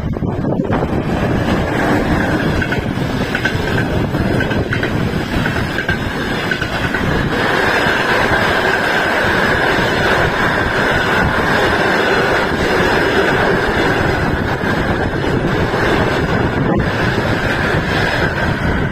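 Long-distance passenger train running past, its carriages giving a steady rolling rumble and faint clicking of wheels over rail joints, with a steady high-pitched whine from the wheels on the rails.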